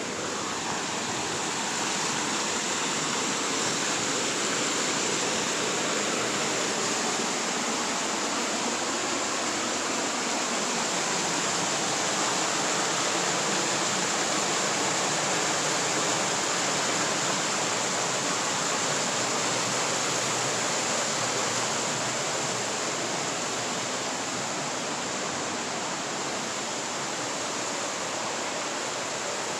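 Steady rush of fast-flowing creek water, a continuous even hiss that swells slightly in the first few seconds and eases a little near the end.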